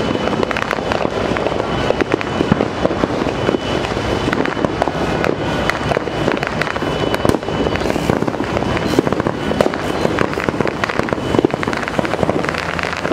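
Many fireworks and firecrackers going off at once: a dense, continuous crackle of small bangs, with louder reports scattered throughout.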